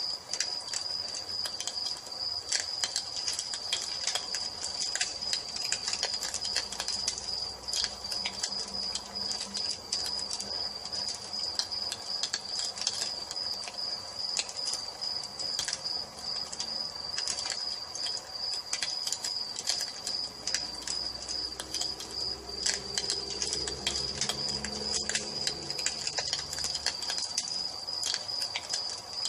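Wood fire crackling with sharp, irregular pops, over crickets chirping in a steady, rapidly pulsing high trill.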